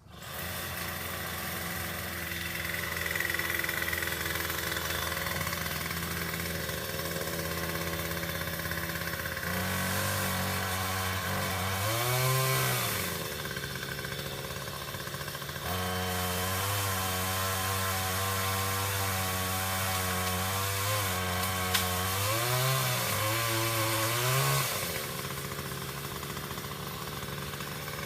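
A small engine running steadily, its pitch rising and falling twice: once near the middle and again later on. A short sharp click comes in about two-thirds of the way through.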